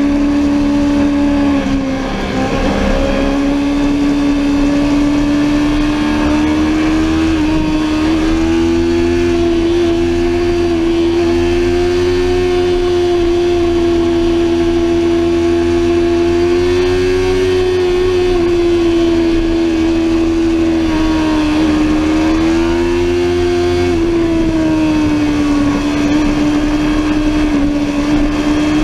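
Sportbike engine running hard at high revs at a steady high pitch. The pitch dips briefly about two seconds in, climbs a little near eight seconds and falls back near the end, over a steady rush of wind noise.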